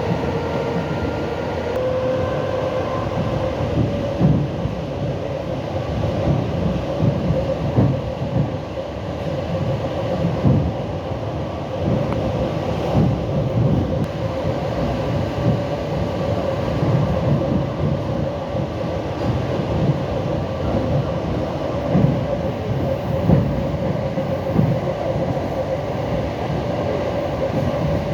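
Suburban electric train running at speed, heard from a passenger carriage: a steady rumble of wheels on rails with irregular knocks from the track, and a steady whine that slowly rises in pitch.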